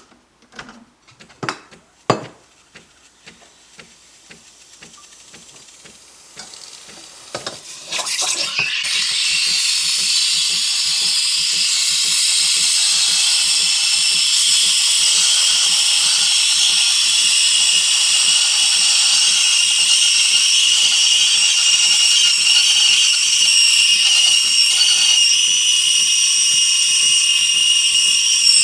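A few clicks and knocks, then about eight seconds in an espresso machine's steam wand opens and hisses steadily as it steams milk in a pitcher, with a low regular pulsing underneath.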